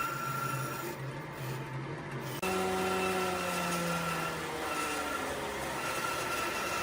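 A workshop power tool's electric motor running with a steady hum; about two and a half seconds in there is an abrupt change, and its pitch falls over the next couple of seconds as it winds down.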